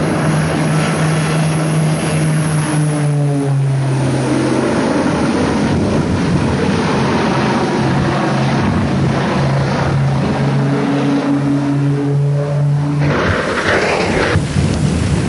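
Propeller aircraft engine droning steadily, its pitch dropping a few seconds in and rising again later. Near the end the drone gives way to a rushing noise.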